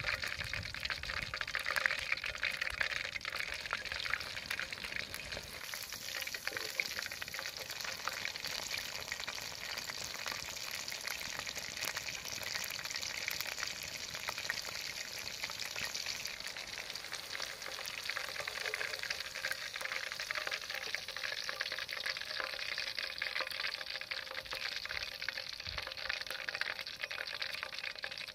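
Chicken kebab pieces frying in hot oil: a steady sizzle thick with fine crackling.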